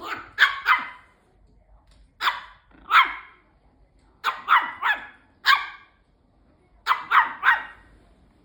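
Bichon Frise barking sharply, about a dozen short high barks in quick groups of two to four with pauses between them.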